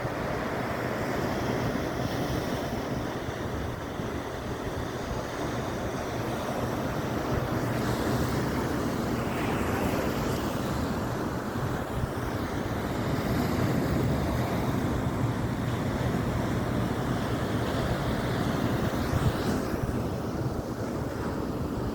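Pacific Ocean surf breaking and washing ashore, a steady rushing that swells now and then, with wind buffeting the microphone.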